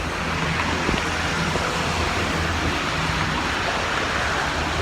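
Steady rush of heavy rain and gusting wind, with a low steady hum underneath.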